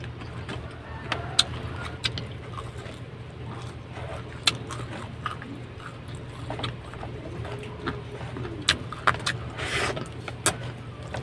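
Close-up eating sounds: chewing and crunching of crispy breaded fried chicken katsu, with sharp crunches scattered irregularly, a cluster of them near the end. A steady low hum runs underneath.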